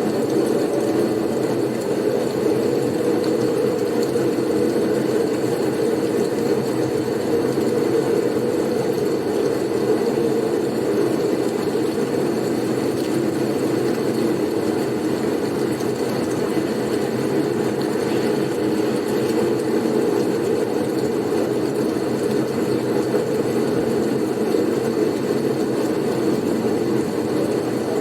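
Steady, unbroken low rumble of blizzard wind, a snowstorm ambience used as sleep noise.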